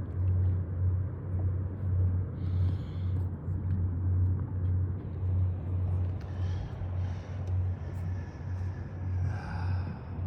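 Boat engine running at low revs: a steady, low, throbbing rumble.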